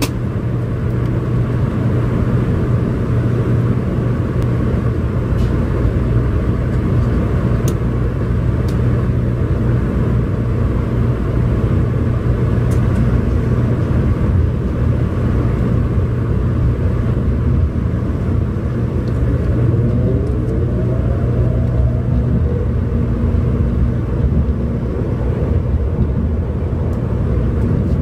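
Cabin noise inside a 700 series Shinkansen pulling out of a station: a steady low hum and rumble from the running gear and motors. About twenty seconds in, a faint rising whine comes in as the train gathers speed.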